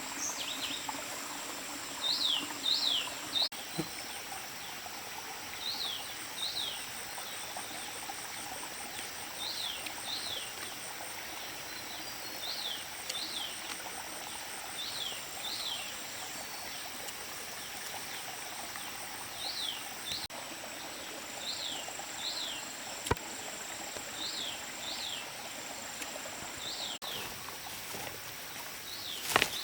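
A bird repeating a short call of two quick downward-sliding whistles every couple of seconds, over a steady high insect drone and a soft background hiss.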